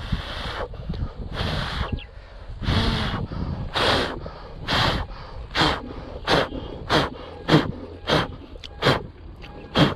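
A person blowing repeated puffs of breath to send a tuft of fluffy seed floating. The first puffs are long and slow; they grow shorter and quicker, about one every two-thirds of a second by the end.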